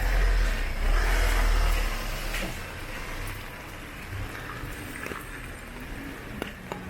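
Street traffic: a vehicle passing close by makes a loud low rumble for the first two seconds or so, which then fades into a steady, quieter traffic hum with a few small clicks.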